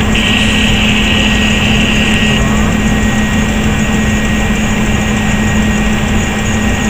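Steady Boeing 737 cockpit noise: a constant rush of air and engine/systems sound with a low steady hum and faint high whines. For about the first two seconds a higher-pitched hiss sits on top of it.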